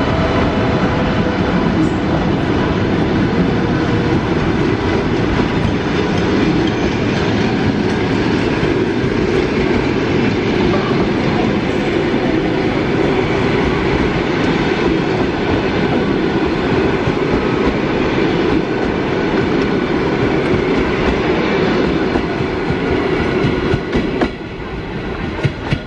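Passenger train pulling out of a station, its carriages rolling steadily with wheels clattering over the rail joints. It gets noticeably quieter with a few knocks near the end.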